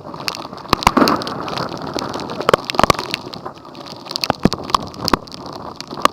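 Heavy rain pelting down, a dense steady hiss with many sharp, irregular raindrop impacts striking close to the microphone.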